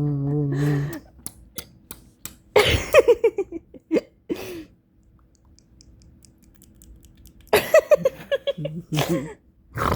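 A person making funny noises with the mouth and bottom lip. A held hum stops about a second in, followed by a few clicks. Then come short stuttering, wobbling bursts of mouth noise, one about three seconds in and another near the end, with a quiet gap between them.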